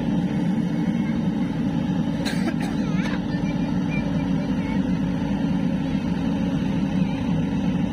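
A steady, low engine drone, with faint voices briefly about two to three seconds in.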